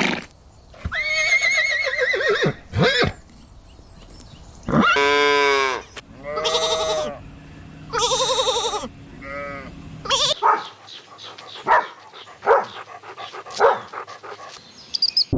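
Livestock bleating: about five separate quavering calls, each lasting about a second, followed by a run of short, sharp calls roughly once a second.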